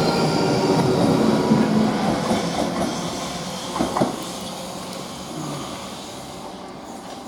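Class 458 electric multiple unit pulling away and running off into the distance, its running noise fading steadily. A brief sharp clatter from the wheels comes about four seconds in.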